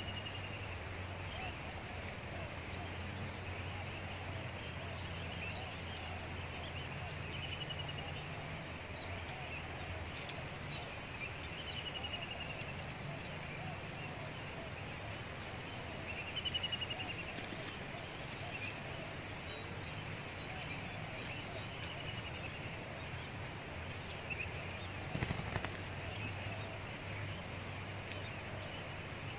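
Insects trilling steadily at a high pitch, with short falling bird chirps every few seconds over it.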